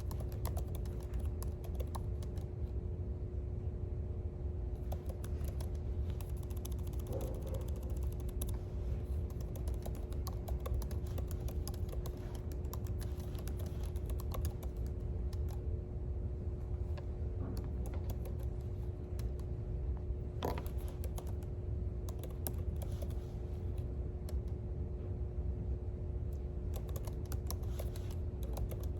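Computer keyboard typing: short, irregular key clicks in uneven spurts, over a steady low room rumble and a faint steady hum.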